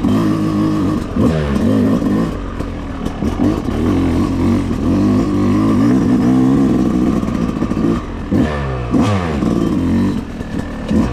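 Yamaha YZ250X two-stroke dirt bike engine lugging at low revs under load uphill, its pitch rising and falling a little after a second in and again near the end as the throttle is worked.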